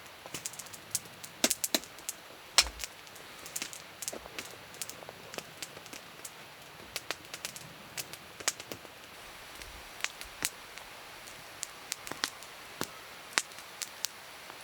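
Wood campfire crackling: irregular sharp pops and snaps, the loudest about one and a half and two and a half seconds in.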